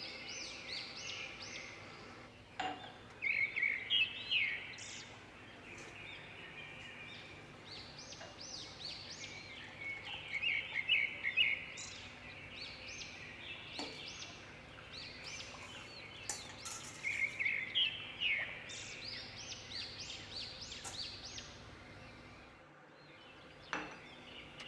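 Birds chirping in repeated bursts of short high notes, with a few sharp clicks.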